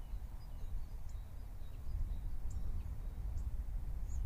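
Outdoor ambience: small birds chirping in short, high calls scattered throughout, over a steady low rumble.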